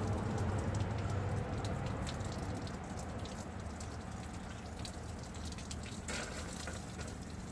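Water running steadily from a tap at a camper's freshwater tank, easing off over the first few seconds as the flow is turned down.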